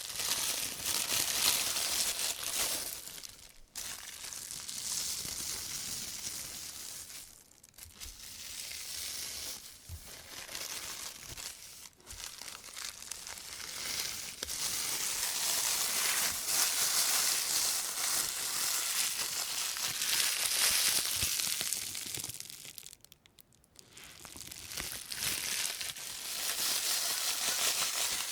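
Thin white plastic carrier bag crinkling and crackling as rubber-gloved hands handle and scrunch it, a continuous rustle with a few brief pauses, the longest about two-thirds of the way through.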